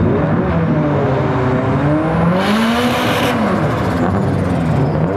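Drift cars' engines revving as they slide around a street corner, the pitch rising and falling with the throttle. A loud hiss lasting about a second cuts in about two and a half seconds in.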